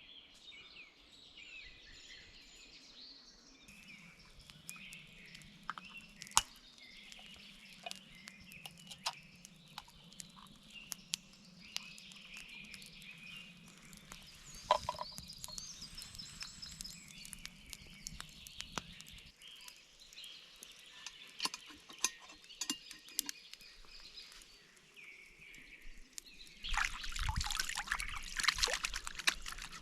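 Songbirds singing in the background with scattered sharp clicks, then, about 27 seconds in, a louder rushing, splashy noise for the last few seconds.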